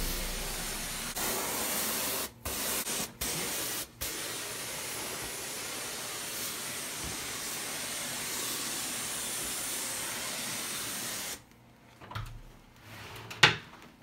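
Hand-held carpet pre-spray wand hissing steadily as it sprays a citrus-based enzyme cleaner onto the carpet. The hiss breaks off briefly three times in the first few seconds and stops about eleven seconds in. A short sharp click comes near the end.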